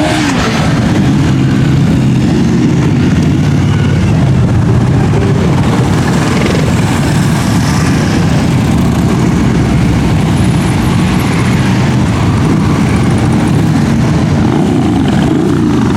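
Many motorcycle engines running together as a parade of motorcycles rides past, a loud, steady mass of engine noise.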